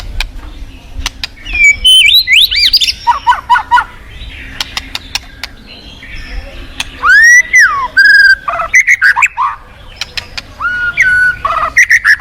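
White-rumped shama (murai batu) singing a varied run of loud whistles, rising and falling slurred notes and quick repeated chirps, over a low steady rush of flowing water.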